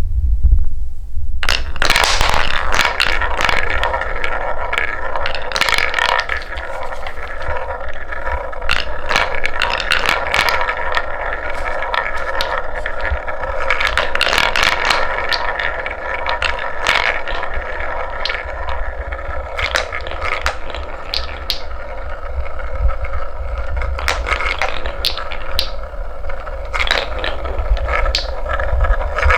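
Wooden balls rolling down a wooden marble run track: a continuous rolling rattle, starting about one and a half seconds in, full of sharp clacks as the balls hit each other and the track, over a low rumble.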